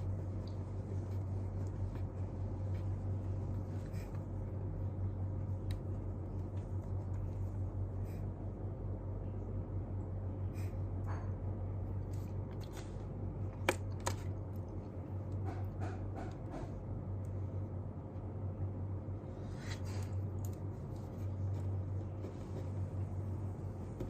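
Small desk sounds of someone studying: scattered light taps, clicks and paper or pen handling, with one sharper click a little past halfway. A steady low hum runs underneath.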